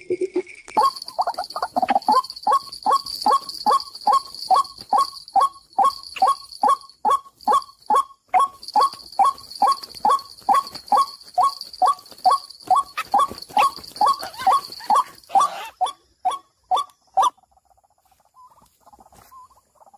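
White-breasted waterhen giving its long run of repeated short 'kook' notes, about two and a half a second, stopping about seventeen seconds in. A steady high-pitched whine runs behind the calls and cuts off a little before they end.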